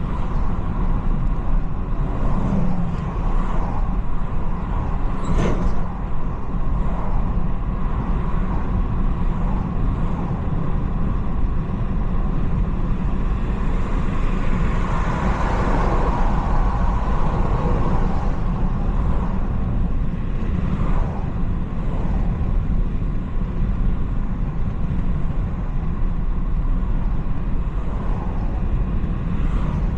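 BMW 330i (G20) with its 2.0-litre turbocharged four-cylinder driving at steady speed: a continuous low rumble of engine and tyre noise, with a brief sharp sound about five seconds in and a louder swell of noise around the middle.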